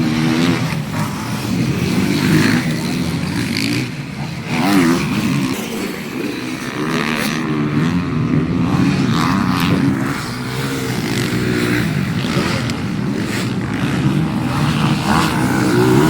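Motocross dirt bike engine revving, its pitch rising and falling over and over as the throttle is worked.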